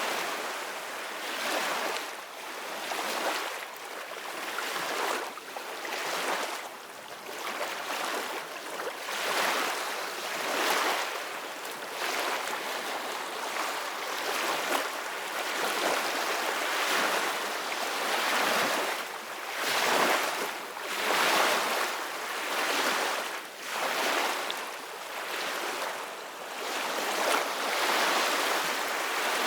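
Ocean surf: waves breaking and washing in, swelling and fading every second or two.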